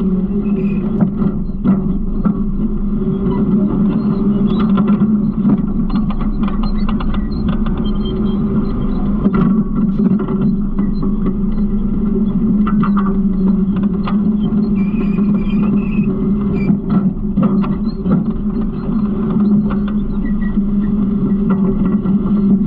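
Garbage truck engine running steadily with a constant hum, over many short rattles and knocks.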